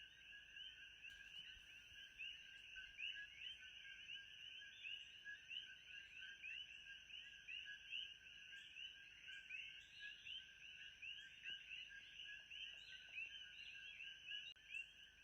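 Faint, dense chorus of many small animal calls, short chirps overlapping without a break, over a steady high hum, with a faint tick about once a second.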